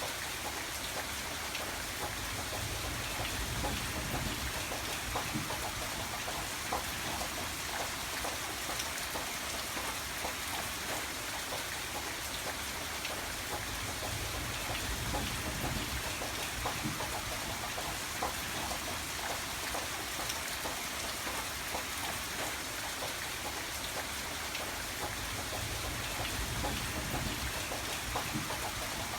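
Steady rain falling, with many separate drops hitting a surface. A low rumble swells and fades three times, around the start, the middle and near the end.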